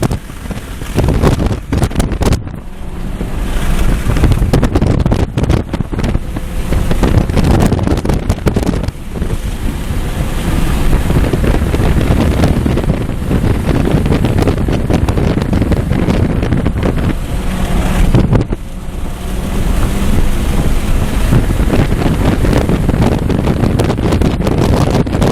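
Hyundai Elantra N's 2.0-litre turbocharged four-cylinder engine running hard at speed on a race track, buried in heavy wind noise on the microphone. The level drops briefly three times, about 2, 9 and 18 seconds in, then builds again.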